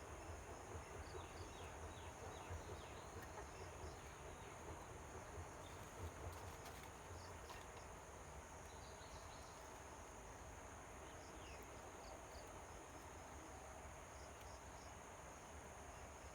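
Faint, steady, high-pitched chorus of insects such as crickets trilling without a break, with a low rumble underneath.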